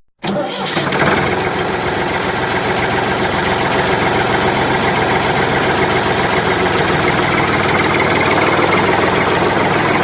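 A small engine running steadily with a fast, even chugging, starting just after the music cuts out and settling within about a second.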